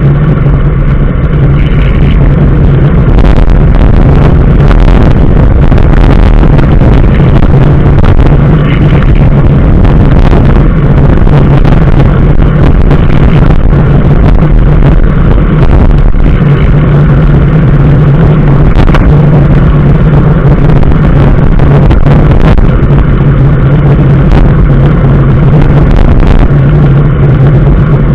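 A car driving: loud, steady engine and road drone with a constant low hum, and a few brief knocks along the way.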